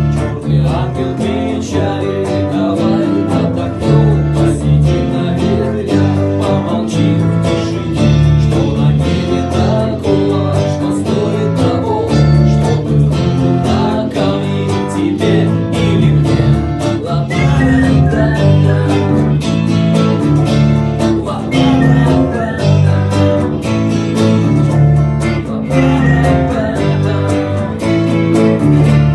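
Strummed acoustic guitar with a bass guitar playing steady low notes under it: an instrumental passage of a rock song cover.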